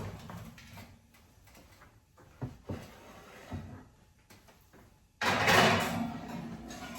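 Clunks and knocks of an oven door and a pan being handled, then a sudden louder rushing noise for the last couple of seconds.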